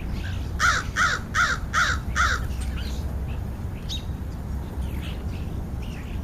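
American crow cawing five times in quick succession, about two caws a second.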